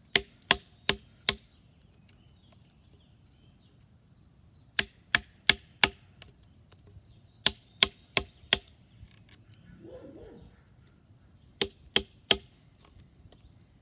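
Batoning a Morakniv knife: a tomahawk handle strikes the knife's spine, driving the blade through wood, in four bursts of three to five sharp knocks, about three a second.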